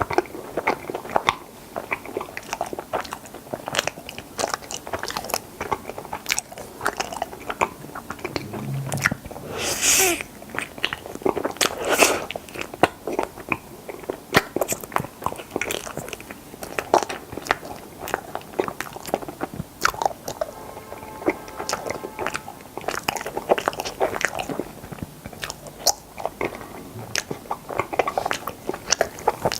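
Close-miked eating sounds of strawberry mochi ice cream: biting and chewing with many small, irregular wet mouth clicks, and two louder noisy bursts about ten and twelve seconds in.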